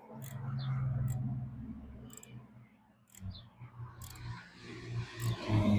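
Small metal clicks and taps of hand tools and carburetor parts being put back together, irregular and a second or so apart, over a low, wavering hum that swells and fades twice.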